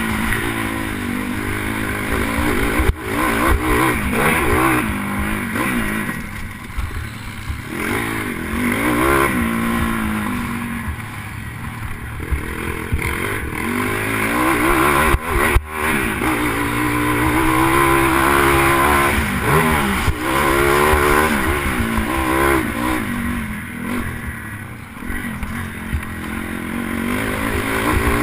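Pit bike's single-cylinder four-stroke engine at race pace, revving up and dropping back again and again through gear changes and corners. There are two sharp knocks, one about three seconds in and one about halfway.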